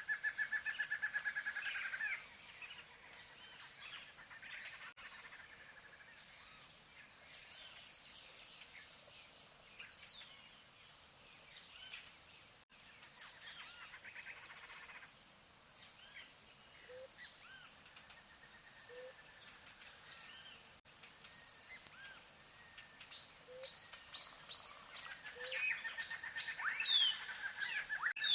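Several songbirds singing and calling, with many short, high chirps and whistles. A fast, even trill sounds in the first two seconds and returns near the end.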